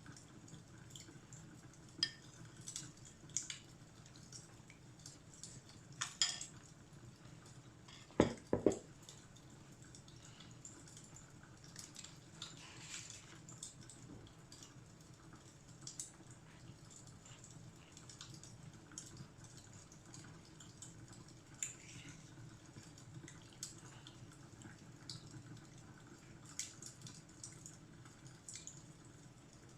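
Fireplace crackling: scattered, irregular snaps and pops over a low steady rumble, with a louder double pop about eight seconds in.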